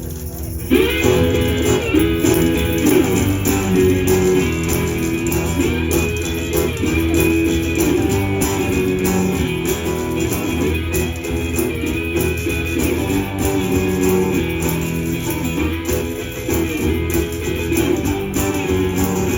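Live blues band playing a guitar-led instrumental introduction, with the full band coming in less than a second in and keeping a steady, repeating groove.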